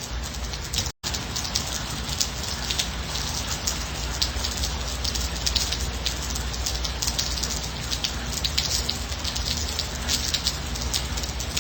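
Steady light rain, a continuous hiss full of small pattering drops, with a momentary break in the sound about a second in.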